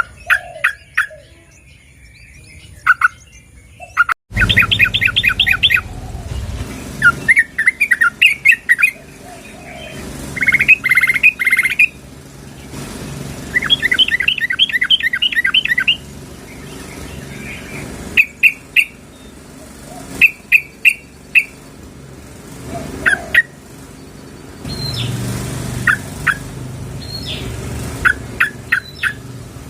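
Yellow-vented bulbuls (trucukan) calling: sharp, clear notes, some single and some in fast chattering runs of about six notes a second. This is a female's call to attract a male, used as a lure recording.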